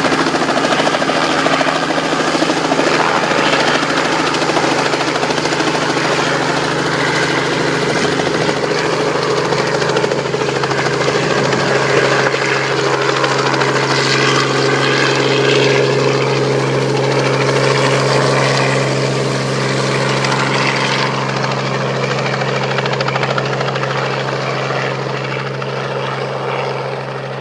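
Helicopter overhead, its rotor and engine running loudly and steadily, growing a little quieter and duller over the last few seconds.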